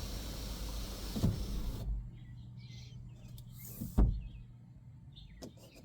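2006 Lincoln Zephyr's electric sunroof motor running steadily and cutting off abruptly about two seconds in as the panel reaches the end of its travel. A single loud clunk follows about two seconds later.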